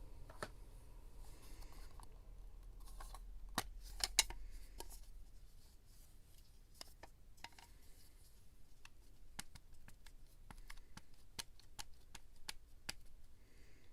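Scissors cutting paper at close range: a few sharp snips about four seconds in, then a steady run of single snips, roughly three a second, through the second half.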